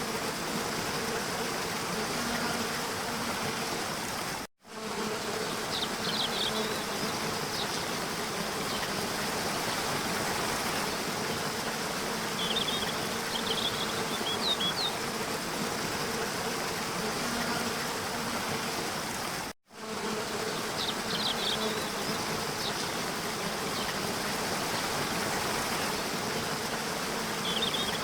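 Steady rush of a waterfall, with short bird chirps here and there. The sound drops out abruptly twice for a split second, like a loop being restarted.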